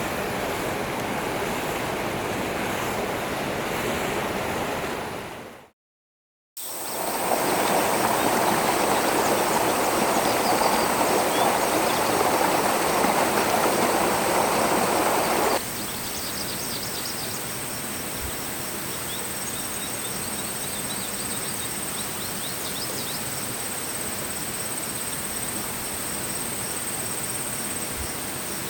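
Running water of a forest stream in a few separate edited takes, with a brief silent gap between the first two. The second, louder take cuts off suddenly about halfway through. The quieter water after it carries a steady high-pitched tone and faint ticking.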